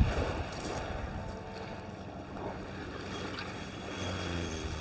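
Steady wind on the microphone over the wash of sea waves on the beach.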